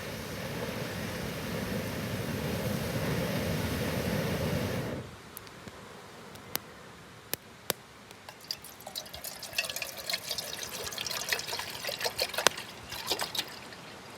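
Water being poured for about five seconds, the rush growing slowly louder before it stops sharply. Scattered sharp clicks and light crackling follow, busiest near the end.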